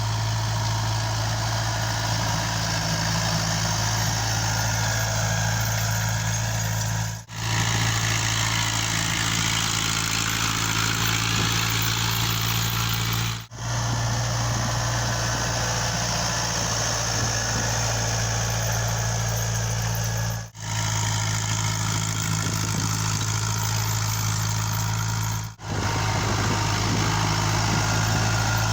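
Same Saturno 80 tractor's diesel engine running steadily, at an even speed. The sound is broken by four brief sudden dropouts where clips are joined.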